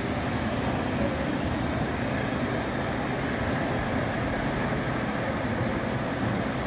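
Model trains running on a large miniature railroad layout: a steady, even rumble with no distinct knocks or whistles.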